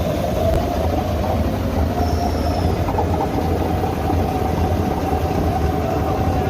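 Heavy engine running steadily at an even speed: a low drone with a constant mid-pitched whine over it.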